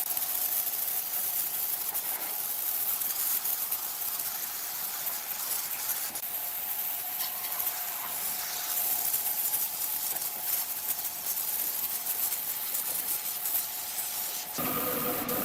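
Steady hissing noise with scattered light clicks; several steady tones come in near the end.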